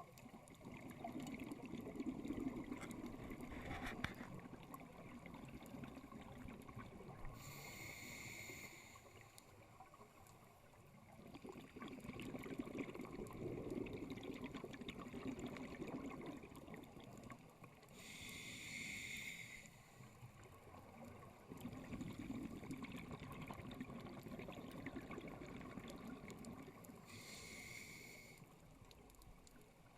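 Scuba diver breathing through a regulator underwater: three slow breaths, each a short hiss from the regulator on the inhale, with several seconds of bubbling exhaust on each exhale.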